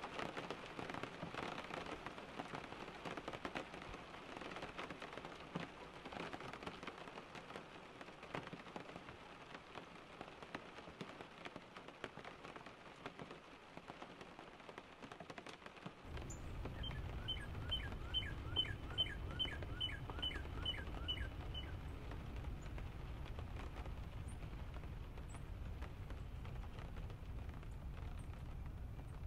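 Rain pattering, then a sudden cut about halfway to a low rumble with a bird singing a trill of about a dozen quick notes over some five seconds, followed by a few faint high chirps.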